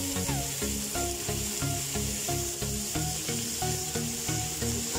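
Carrot and potato strips sizzling in oil in a karahi, a steady hiss, over background music of short stepped notes.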